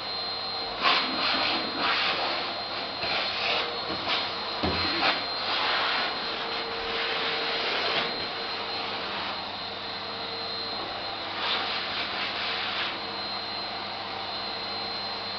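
Vacuum cleaner running continuously with a steady high whine. Its rushing airflow surges irregularly, often through the first half and once more about eleven seconds in.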